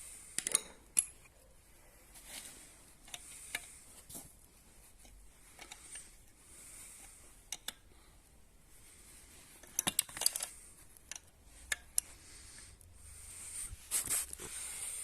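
Scattered metallic clicks, clinks and knocks of small metal compressor parts being handled and fitted together, with small clusters about half a second in, around ten seconds in and near the end.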